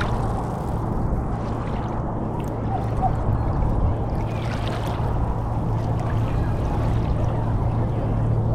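Water sloshing and trickling around a kayak as it is paddled, with a few splashy strokes about halfway through, over a steady low hum.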